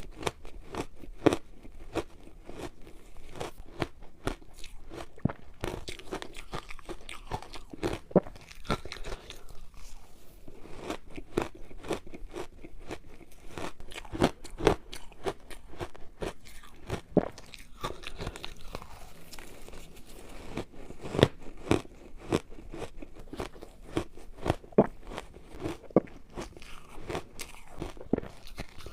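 A frozen matcha ice ball being bitten and chewed, with frequent sharp, irregular cracks of ice breaking between the teeth.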